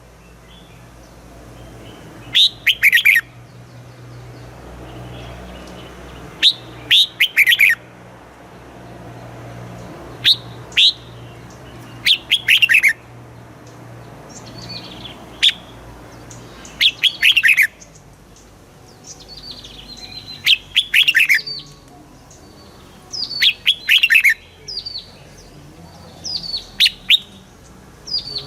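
Red-whiskered bulbul singing: short, loud phrases of a few quick falling whistled notes, repeated every few seconds.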